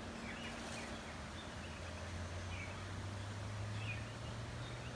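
Outdoor backyard ambience: a few faint, short bird chirps over a steady low hum.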